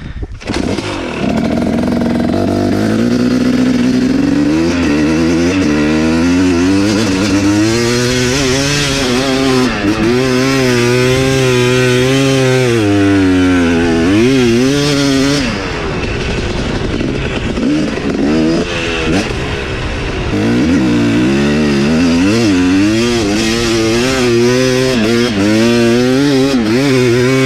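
Dirt bike engine under throttle, its pitch rising and falling again and again as the rider works it. About halfway through it drops to a lower, quieter note for a few seconds, then picks up and revs again.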